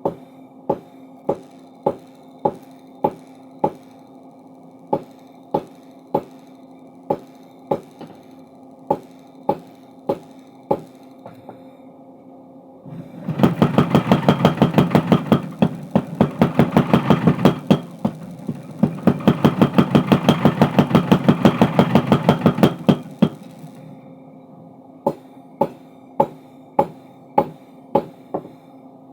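Power hammer forging a steel crowbar, with a steady motor hum under it. At first there are single ringing metal strikes, about one and a half a second. About halfway through, a loud, fast run of blows lasts roughly ten seconds with a brief break in the middle, then the slow strikes return.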